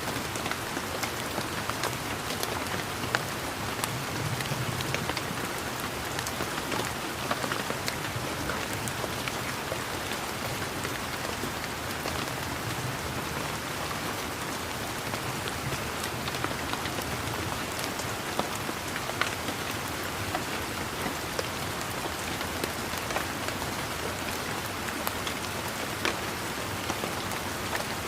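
Steady rain falling on garden foliage, an even hiss dotted with many small, sharp drop hits.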